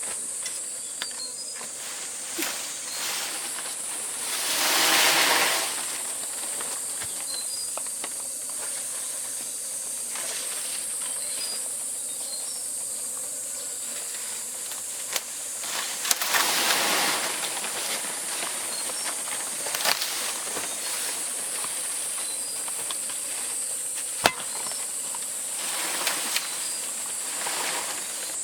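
Steady high-pitched insect drone, with three louder swells of rustling vegetation, the first about four seconds in, and a few sharp snaps and cracks as plants are pulled and broken.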